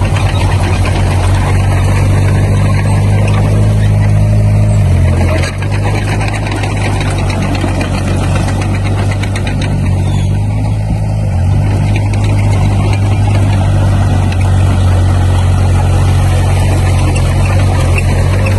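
Diesel engine of heavy earthmoving machinery running loudly and steadily, its pitch shifting a couple of times as throttle or load changes.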